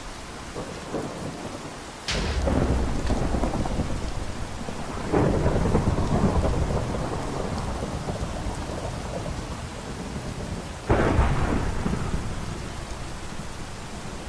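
Steady rain with thunder: three sudden thunderclaps, about two, five and eleven seconds in, each rumbling low and fading over a few seconds.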